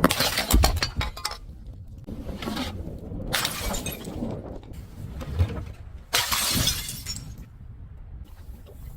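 Glass being crushed: three bursts of shattering and crunching a few seconds apart, with lighter crackling of glass fragments between them.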